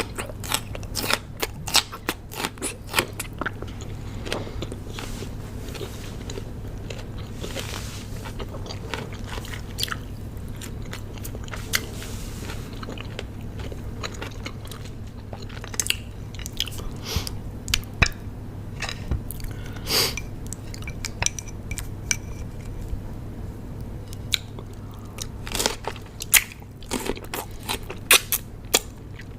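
Close-miked crunching and chewing of raw cucumber. A quick run of crisp crunches at the start gives way to softer chewing through the middle, with crunchy bites coming back near the end over a low steady hum.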